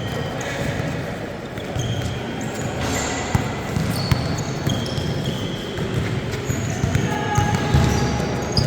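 Basketball game sounds: sneakers squeaking on the court in many short high squeals, the ball bouncing in a few sharp knocks, and a steady murmur of spectators.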